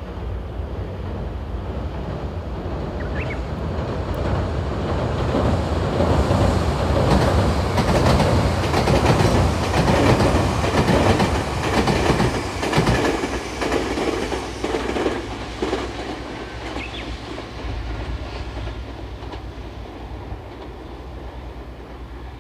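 Tobu 500 series Revaty electric express train, six cars in two coupled three-car units, passing at speed: a rumble of wheels and running gear with rapid clicking of wheels over the rail joints. It swells to a peak about halfway through and fades away as the train recedes.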